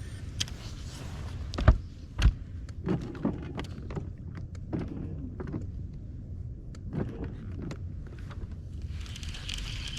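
Knocks and clunks against a jon boat's hull, two loud thumps close together about two seconds in and lighter knocks after, over a steady low rumble.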